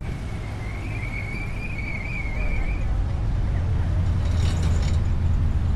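A vehicle engine running with a steady low rumble that grows a little louder in the second half. A thin, wavering high squeal runs over it for about two seconds in the first half.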